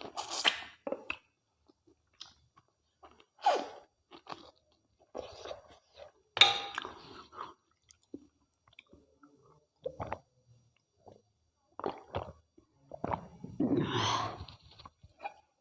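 Close-miked chewing of mutton curry and rice, wet mouth sounds in irregular bursts, with a longer, louder stretch near the end.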